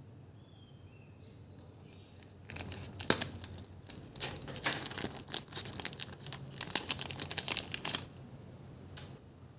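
Irregular crinkling and rustling, something being handled, running for about five seconds starting a couple of seconds in, with one last crackle near the end.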